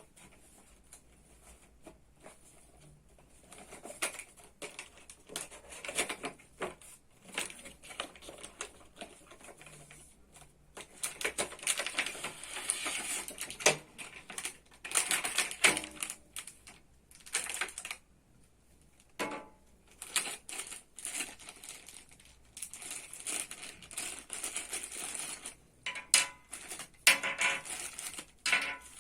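Camera packaging being opened and handled by hand: an irregular run of clicks, taps and rustles. It is sparse at first, then busier from about ten seconds in, with a short lull partway through.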